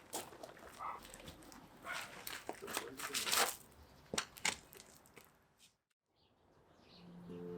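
Irregular crackles and clicks with rustling bursts, loudest about halfway through. The sound then cuts out completely for about a second, and background music starts near the end.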